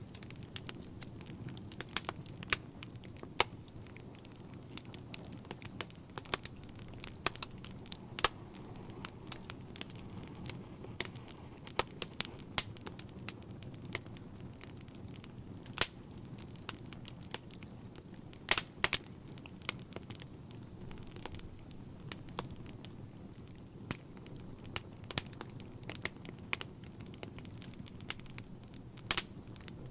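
Wood fire in a fireplace crackling, with irregular sharp pops and snaps over a low, steady rumble of the flames; a few pops stand out louder than the rest.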